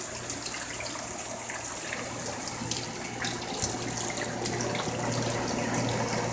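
Heavy tropical-storm rain falling steadily, with scattered drips and splashes.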